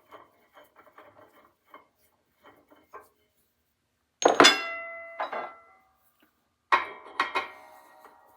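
Metal parts handled and set down: light clicks and rattles, then two pairs of sharp metallic clanks that ring briefly, one pair about four seconds in and one near the end.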